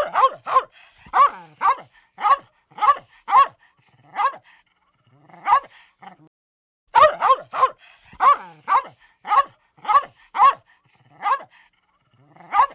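An animal barking repeatedly: short, sharp barks at about two a second, with a sparser stretch in the middle before a faster run.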